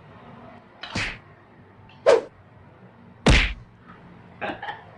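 Three sharp knocks about a second apart, the third the loudest, then a few lighter clicks near the end.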